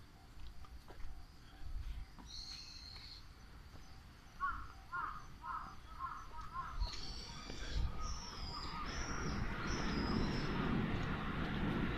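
Wild birds calling outdoors: a run of about six quick repeated calls a few seconds in, with higher, thinner chirps before and after. Over the second half a low rushing noise builds up and grows steadily louder.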